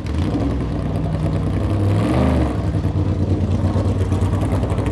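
NASCAR Cup Series stock car's V8 engine running loud, its pitch swooping briefly about two seconds in, then holding steady with a rapid flutter.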